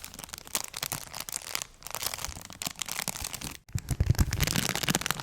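Crinkly paper crumpled and rustled close to the microphone for ASMR: a dense, irregular crackle, with a short break about three and a half seconds in.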